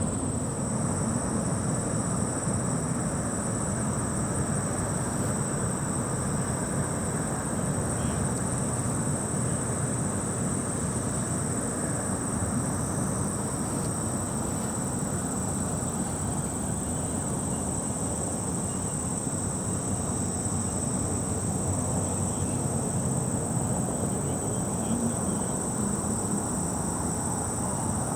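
Steady insect chorus, a continuous high-pitched trill that never breaks, over a constant low rush of noise.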